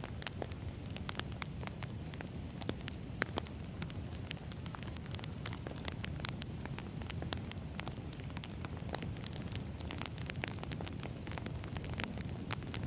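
Burning firewood crackling, with irregular sharp pops and snaps over a steady low rumble of the flames.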